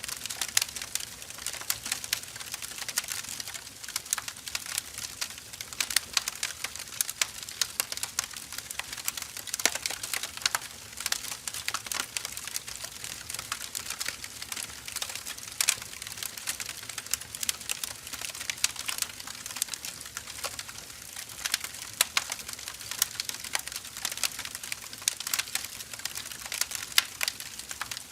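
Wood fire crackling: dense, irregular snaps and pops of burning firewood over a faint steady hiss.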